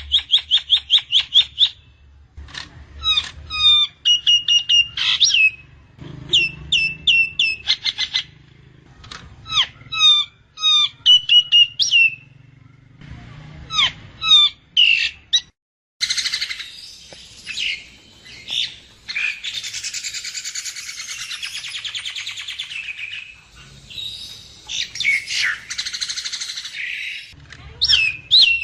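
Nias hill myna calling: runs of short, sharp whistled notes repeated quickly. From about the middle, a long harsh rasping chatter takes over, and the quick notes return near the end.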